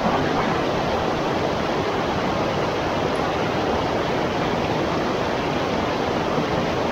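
Steady rush of moving river water, an even wash of noise with no breaks.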